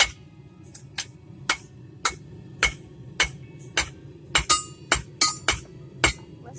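Hand hammer striking a hot railroad spike on an anvil, about two blows a second at an uneven pace, each a sharp metallic clank with a short ring.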